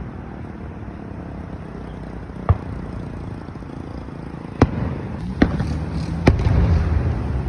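Four fireworks going off in an uneven sequence, about a second apart in the second half, each a sharp report over a steady low rumble.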